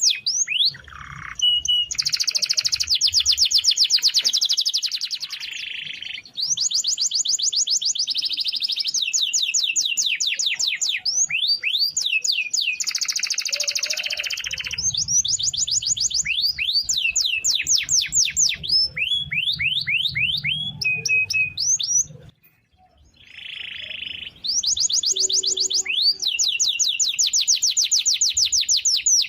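Domestic canary singing a long run of fast rolling trills: rapid, evenly repeated rising sweeps in chains, broken by a brief pause about three-quarters of the way through.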